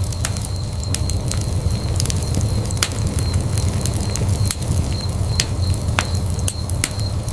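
Wood fire burning in a fireplace, crackling with irregular sharp pops and snaps, several a second, over a steady low rumble of the flames.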